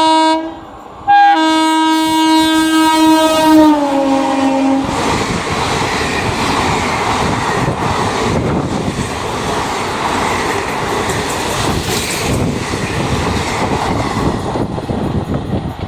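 A railway locomotive's horn sounding loudly in a long blast, broken briefly about half a second in, its pitch dropping as the train passes; then the train rushing by at speed with wheels clattering over the rail joints.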